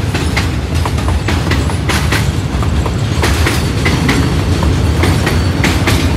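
A train running on the rails: a steady low rumble with many irregular clicks and knocks from the wheels and cars.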